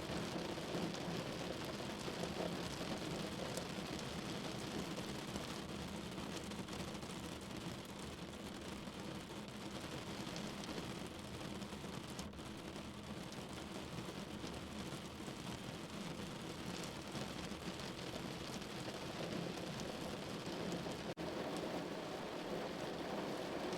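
Steady rain falling, an even hiss that barely changes, broken by a momentary dip about three-quarters of the way through.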